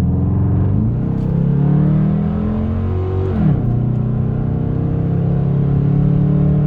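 2011 Dodge Durango R/T's 5.7-litre Hemi V8 through Thrush Rattler mufflers, with the mid mufflers and resonators deleted, accelerating: the engine note climbs, drops at a gear change about a second in, climbs again and drops at a second upshift about three and a half seconds in, then holds steady at cruise.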